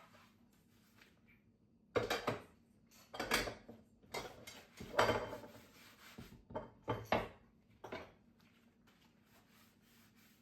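Household objects being handled and set down: a run of short clattering knocks and rubbing noises lasting several seconds, then quiet.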